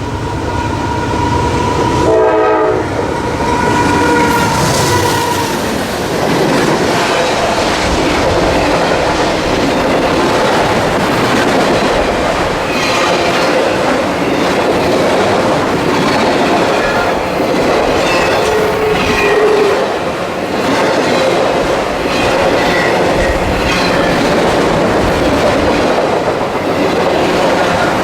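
A train horn sounds for about the first five seconds, with a short break about two seconds in. Then the train rolls past with a steady rumble and the clickety-clack of its wheels over the rail joints.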